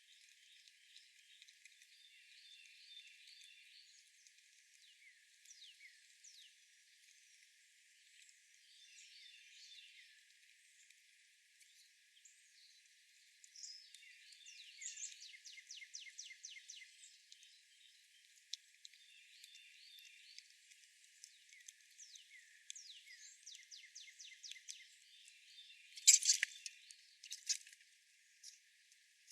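Small songbirds chirping outdoors: scattered short, quick chirps and bursts of rapid trilled notes, quiet throughout except for one louder flurry of sharp chips about 26 seconds in.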